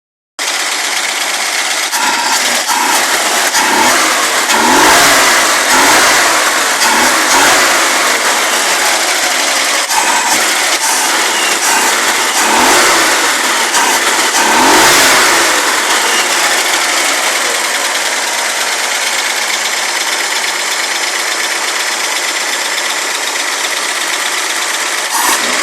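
Chevrolet Nova Concours engine running on a cold start, blipped up and down in revs a few times, then settling to a steady fast idle in its last ten seconds.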